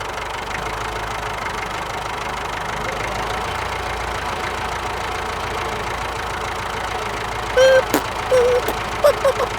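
Mini tractor's engine sound running steadily at an idle-like pace. Near the end, several short, loud, high wavering tones cut in over it.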